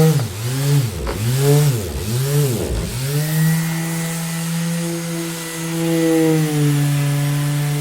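Orbital sander motor running with a steady hum. Between about a second and three seconds in, its pitch drops sharply and recovers three times, then it settles back to a steady run.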